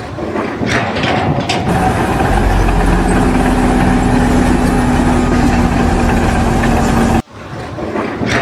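A vehicle or machine engine running steadily, with a low hum that settles in about two seconds in. The sound cuts off abruptly near the end.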